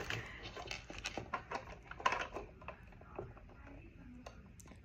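Keys clicking and rattling against a small lock as it is worked: a string of light, irregular clicks and taps, thinning out in the second half.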